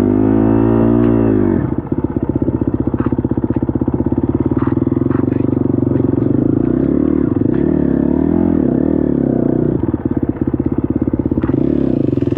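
KTM SX-F 250 dirt bike's four-stroke single-cylinder engine revving up under throttle, then dropping back sharply about two seconds in. It runs on with the throttle rolled on and off, while a few sharp knocks clatter over the engine.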